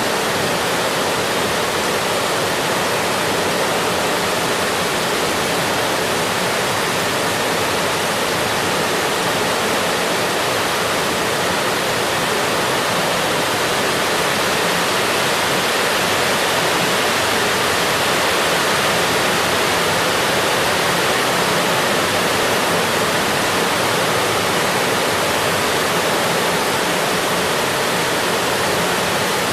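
Steady rain, an even, unchanging hiss.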